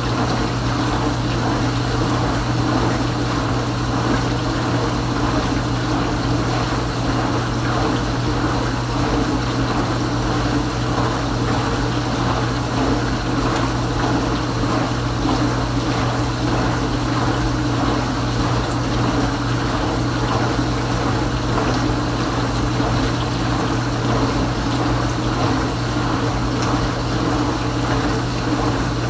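Kenmore Ultra Wash dishwasher's pump running steadily with a constant motor hum, water rushing and splashing inside the tub.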